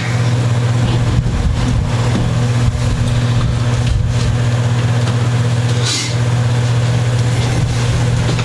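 Steady low electrical hum, with a few faint knocks and rustles.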